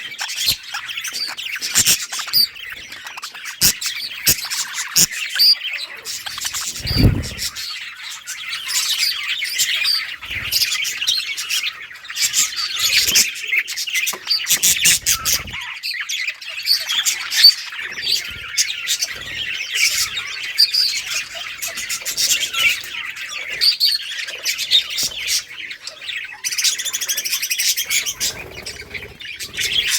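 A flock of budgerigars chirping and chattering continuously, many birds calling over one another with sharp squawks and clicks. A short low thump sounds about seven seconds in.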